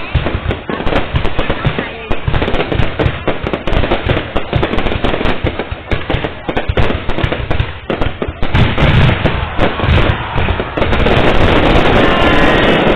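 Fireworks display: rapid, overlapping bangs and crackles. Near the end these merge into a steady, loud din.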